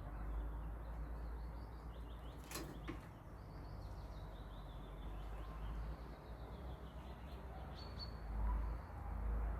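Faint high bird chirps over a steady low rumble, with two sharp clicks about two and a half seconds in.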